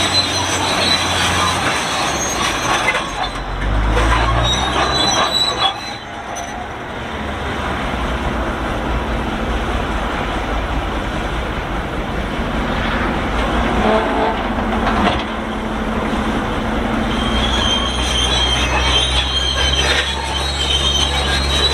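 Shantui SD32 crawler bulldozer squealing loudly as it moves, a metallic screech heard most at the start and again in the last few seconds, over its running diesel engine.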